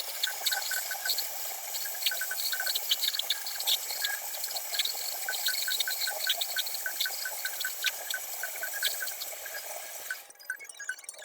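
A steady hiss that stops suddenly about ten seconds in, over quiet background music with a light repeating blip.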